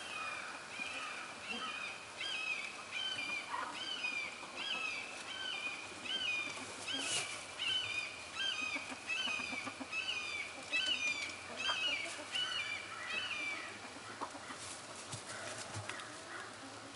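Birds carrying on in alarm, one high rising-and-falling call after another at about two a second, stopping near the end. The uploader takes the commotion for birds startled by something.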